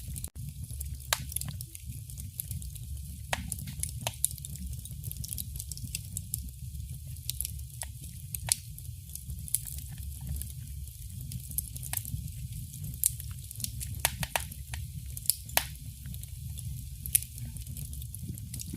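Wood fire in a fireplace crackling: irregular sharp pops and snaps over a steady low rumble and soft hiss.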